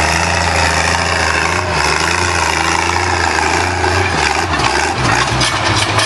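Antique tractor engine running with a steady, even note for about four seconds; near the end the note wavers and shifts.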